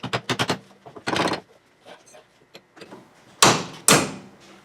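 Metal tools clanking and knocking on a VW buggy's front beam, a quick run of light clicks and taps, then two loud strikes about half a second apart near the end.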